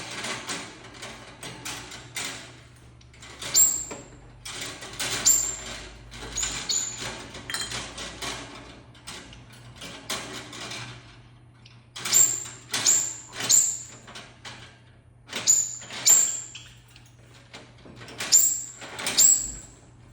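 A bird calling over and over in short, shrill, high chirps, in quick runs of two to four with pauses between, with scratchy noise around the calls.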